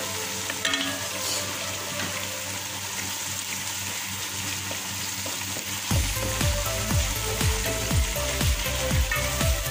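Chicken pieces and chopped tomatoes sizzling in a hot pot, stirred with a wooden spatula. Background music with a steady beat comes in about six seconds in.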